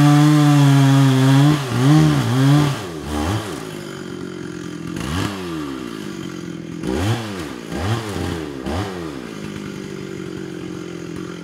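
Stihl two-stroke chainsaw running at full throttle, dipping briefly twice, then dropping to idle about three seconds in and revved in several short blips.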